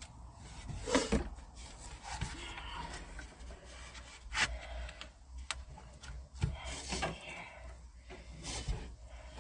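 Hand tools being rummaged through and handled: irregular scraping and rubbing with a few sharp clicks scattered through.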